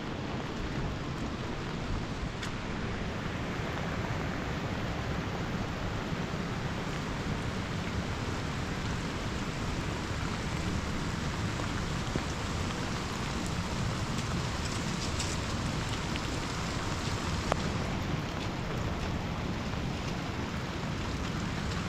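Rain falling steadily, an even hiss with a few faint clicks of drops.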